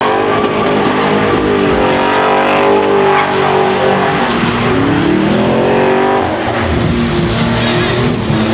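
A truck engine revving hard during a burnout, its pitch dipping and then climbing before settling near the end, with a hiss of tyre noise underneath.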